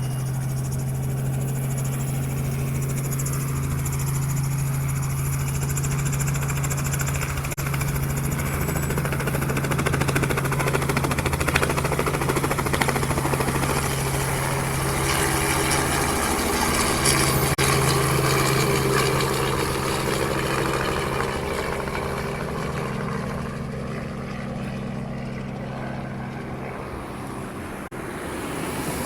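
Helicopter flying low, its engine and rotors running steadily with a constant low hum; the noise swells toward the middle and eases off later on.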